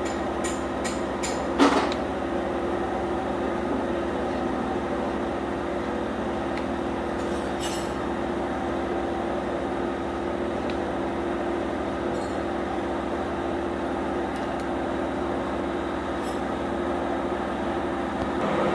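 Metalworking machine running with a steady hum. A few sharp clicks come in the first second or so, and a louder knock about a second and a half in.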